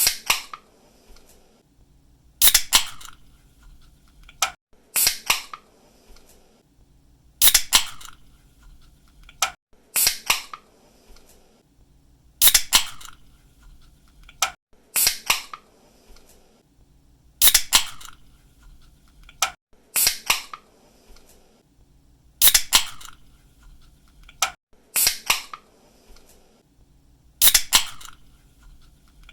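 Aluminium drink can being opened by its pull tab, over and over. Each opening is a pair of sharp snaps about half a second apart, and a new opening comes about every two and a half seconds.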